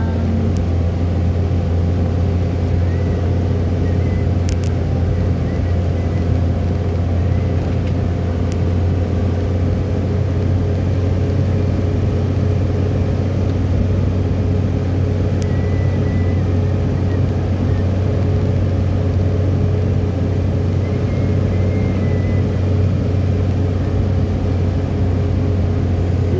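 Vehicle driving along, its engine and road noise making a steady low drone.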